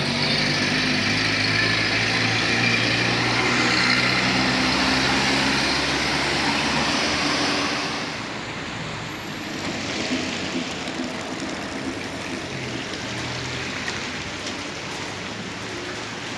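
Car driving: engine running with road noise, louder at first and easing off about eight seconds in.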